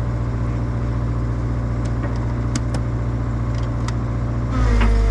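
Excavator diesel engine running steadily, with a few sharp metallic clicks midway, as the machine is worked to get its thrown track back on. Near the end the engine gets louder and a steady whine comes in as the hydraulics are put under load.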